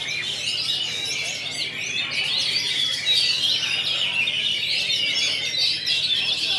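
Dense chorus of caged oriental magpie-robins (kacer) singing at once, many overlapping high chirps, whistles and warbles without pause, over a faint steady hum.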